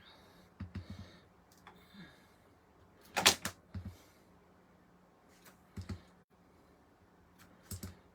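Ink stamp being tapped on an ink pad and pressed down onto cardstock on a craft table: a few sharp clacks, the loudest about three seconds in.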